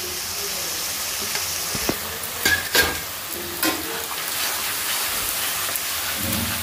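Onion-garlic masala sizzling in oil in a kadhai on low heat while a flat metal spatula stirs and scrapes it. A few sharp clicks from the spatula hitting the pan come near the middle.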